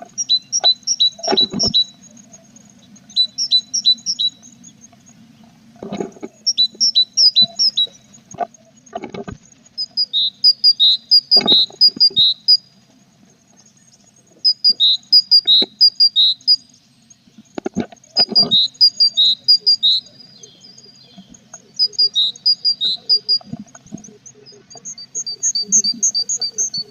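Tit nestlings in a nest box giving begging calls: bursts of rapid, high, short chirps, about eight bursts a few seconds apart, mixed with scattered knocks and scuffles from the chicks moving in the box.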